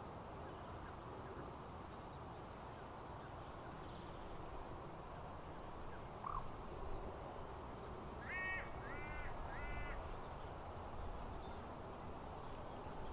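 Bird calling three times in quick succession about eight seconds in, each call short and arched in pitch, over a steady outdoor background rush, with a brief chirp a couple of seconds before.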